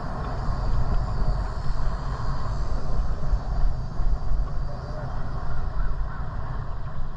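Wind buffeting the microphone of a camera riding along on a moving bicycle: a steady, gusting low rumble with a hiss of air and road noise.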